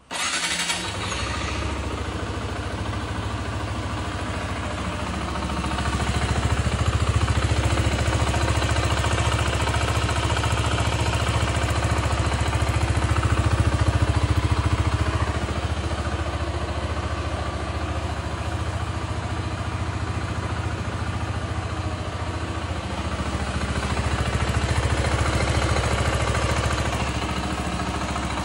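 Zontes C 125's single-cylinder 125 cc four-stroke engine starting and then idling steadily. It runs louder for several seconds from about six seconds in, and again near the end. It has the soft, not very throaty note of its stock Euro 5 exhaust.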